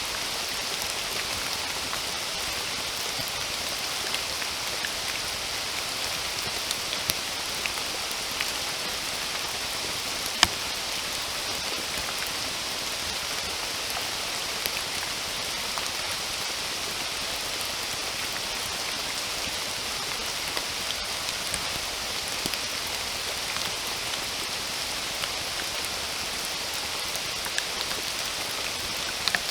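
Steady rain: an even hiss with scattered sharper drop impacts, one louder drop about ten seconds in.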